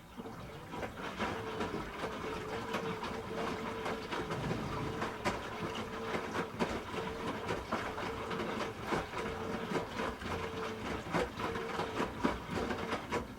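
Hoover H-Wash 300 Plus washing machine running for about thirteen seconds: a motor hum that pulses at regular intervals over a busy clatter of small clicks and rattles, starting and stopping abruptly.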